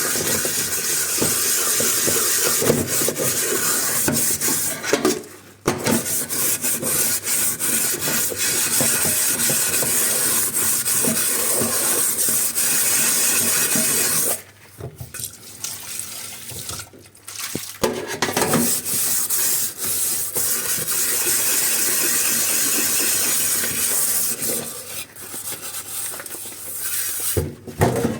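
Tap water running into a kitchen sink while dishes are washed, with clinks of dishes against each other. The flow stops briefly about five seconds in and again for a few seconds midway, when only small knocks of the dishes are heard.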